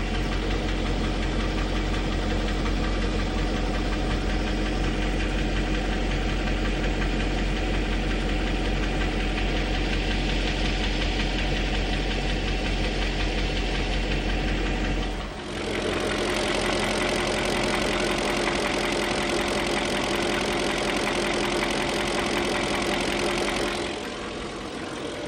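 BMW M62 V8 engine running at idle with a knock, the noise the owner is asking viewers to identify. The sound dips briefly about fifteen seconds in and gets a little quieter near the end.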